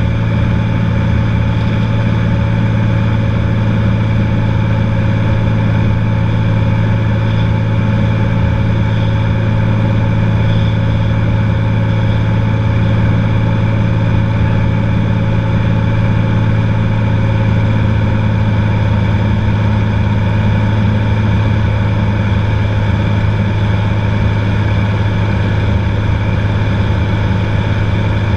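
Cessna 182's piston engine and propeller running at a steady drone in flight, with no change in pitch or level.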